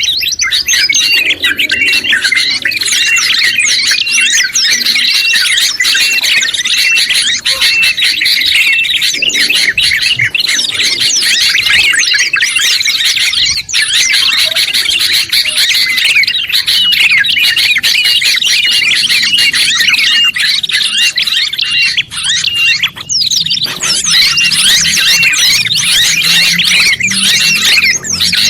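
Dense, overlapping songbird song and chatter from a layered mix of bulbuls (trucuk and kutilang), prenjak and white-eyes (pleci). Through it a short chip repeats at an even pace.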